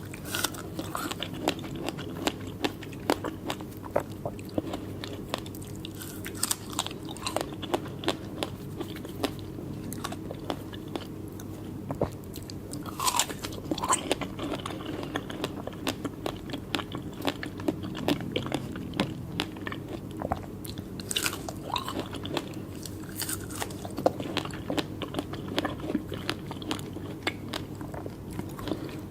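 Close-miked chewing and biting of fresh strawberries: a dense run of small mouth clicks and smacks over a steady low hum.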